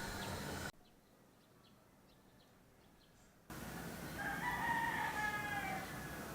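A rooster crows once, a long call about four seconds in. Before it, the steady background noise cuts out to near silence for about three seconds and then returns abruptly.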